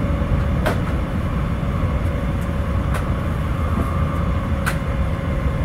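Cabin running noise of a JR Central 700 series Shinkansen: a steady low rumble with a faint hum, broken by a few sharp ticks.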